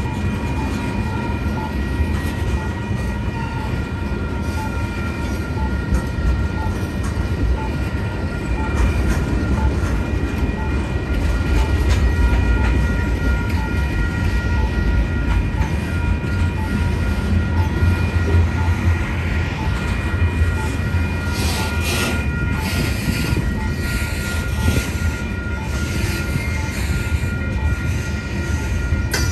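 Union Pacific manifest freight train's tank cars and covered hopper cars rolling past over a grade crossing with a steady low rumble, while the crossing bell dings at an even pace. A cluster of sharp clanks and squeals from the wheels comes about two-thirds of the way through.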